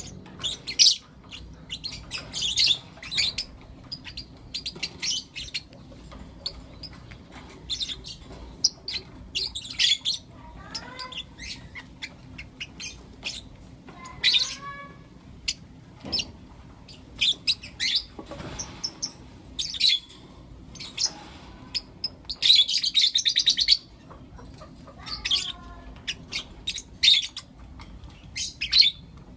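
Pet lovebirds chirping and calling: short, high chirps scattered throughout, a few squeaky calls that bend up and down in pitch, and a loud burst of rapid chatter lasting about a second, a little past two-thirds of the way through.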